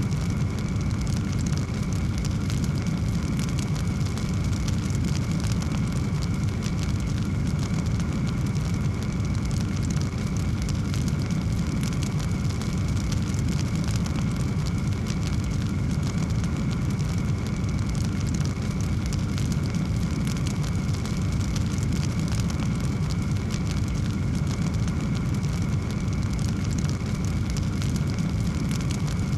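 Wood fire burning in a fireplace: a steady low roar of flame with frequent small crackles and pops throughout.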